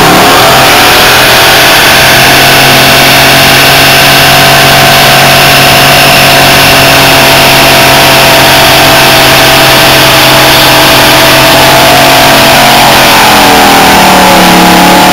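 A car engine held at high, steady revs during a burnout, very loud; about thirteen seconds in, the revs fall away.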